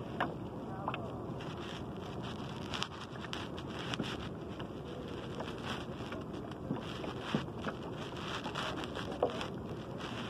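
Steady wind noise on the microphone out on the water from a kayak, with scattered small clicks and knocks.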